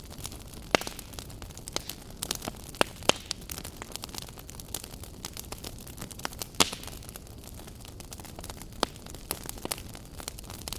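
Wood fire burning in a fireplace: a steady low rush of flame with frequent irregular crackles and sharp pops, the loudest a little under a second in, around three seconds and around six and a half seconds.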